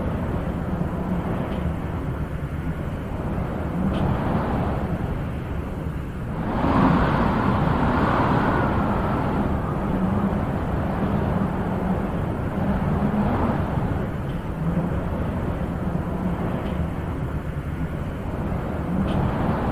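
Wind blowing steadily with a low rushing noise, a stronger gust swelling about six seconds in and easing off a few seconds later.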